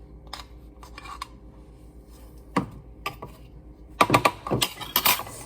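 Utensil knocking against a mixing bowl while cake batter is mixed: a few scattered taps, then a quick run of clattering about four seconds in.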